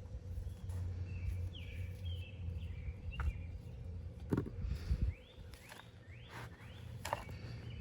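Hands digging through potting soil in a harvest bucket, with a few knocks as potatoes and soil are handled. A bird calls in a series of short rising chirps in the background. Under it a low steady rumble fades out about five seconds in.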